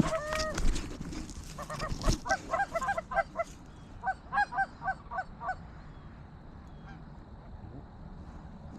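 Geese honking overhead in rapid runs of calls, about four or five a second, that fade out after about five and a half seconds. A dull bump comes about two seconds in.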